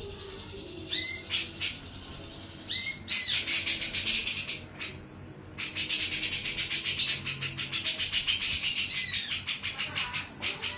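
Jenggot jawa songbird singing full and loud: fast runs of high, rapidly repeated chattering notes. Short pauses break the song around the first second and about halfway through.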